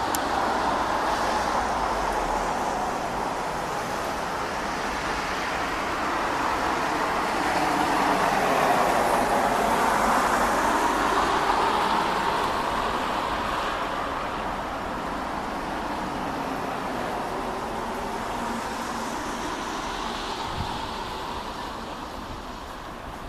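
Distant jet roar of a Boeing 777-200LR airliner passing high overhead at cruise altitude: a steady rushing rumble with slowly shifting, sweeping tone, swelling to its loudest about halfway through and then slowly fading.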